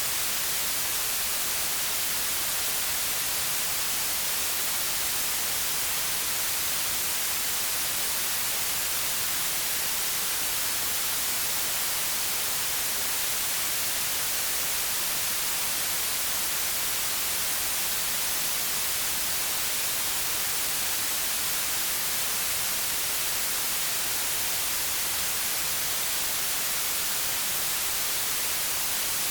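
Steady white noise: an even hiss, strongest in the treble, that does not change.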